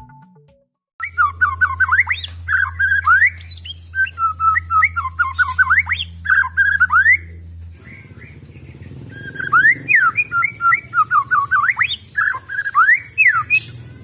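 White-rumped shama (murai batu) singing: quick runs of clear whistled notes and rising and falling sweeps, delivered in two long phrases with a short pause between them, over a steady low hum.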